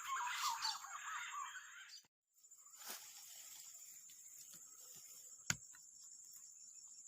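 Birds calling in a busy chatter that fades over about two seconds, then, after a brief break, a faint steady high insect drone with a few sharp clicks, one louder click about five and a half seconds in.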